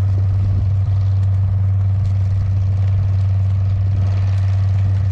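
An engine running steadily, a loud constant low drone that holds the same pitch and level throughout.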